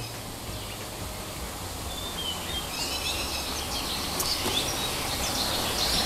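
Small birds chirping in an aviary, short high calls that grow more frequent from about halfway through, over a steady low background noise.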